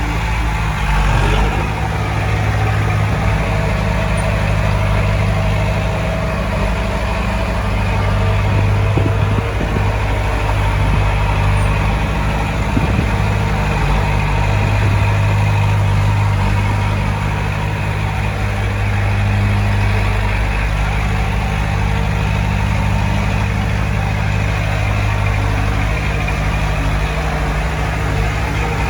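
Heavy diesel engine of earthmoving machinery running steadily, a low drone that swells and eases a few times as it works.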